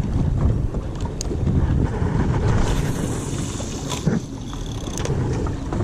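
Wind buffeting the microphone aboard a small fishing boat, a steady low rumble, with a few small clicks and knocks and a brief hiss about three seconds in.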